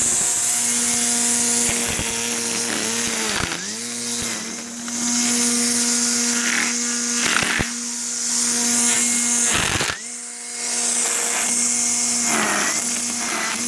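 Stihl FSA 85 battery string trimmer running with a steady high whine while its line cuts through grass. The motor eases off a few times and cuts out for a moment about ten seconds in, then spins back up.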